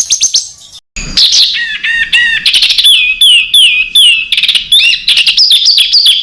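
A songbird singing a fast, varied song. A rapid trill breaks off about half a second in; after a short gap come sharp notes, repeated downward-slurred whistles and quick trills. It is the dense 'tembakan' (burst) style of song used to tutor competition birds.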